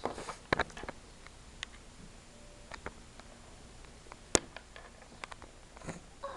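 Light clicks and taps of small plastic toy figures and playset pieces being handled and set down, with one sharper click about four and a half seconds in.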